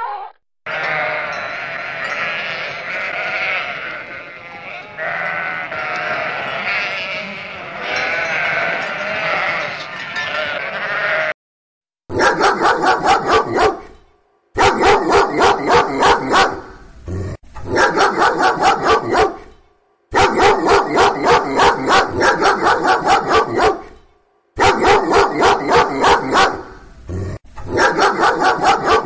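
For about the first eleven seconds a harbor seal pup calls in a long, wavering bleat. Then a pit bull-type dog barks in rapid runs of three or four barks a second, broken by short pauses.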